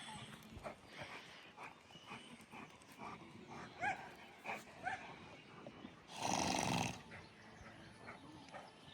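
Dog vocalizing faintly: a few short yips around the middle, then one louder, harsh growling bark lasting under a second about six seconds in.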